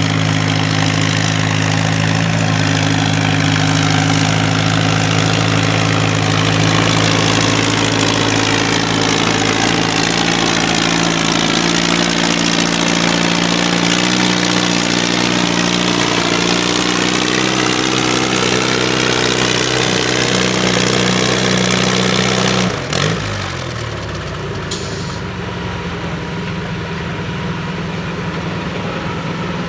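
Antique pulling tractor's engine running loud and steady; about 23 seconds in the note cuts off suddenly and a quieter engine keeps running for the rest.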